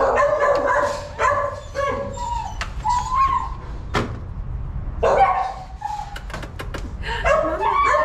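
Several puppies whimpering and yipping, their high whines overlapping and sliding up and down in pitch. A sharp click about four seconds in.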